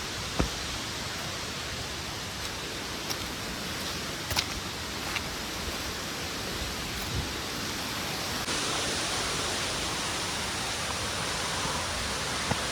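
Steady rush of falling water from a waterfall, with a few faint knocks over it; the rush steps up slightly in level about eight seconds in.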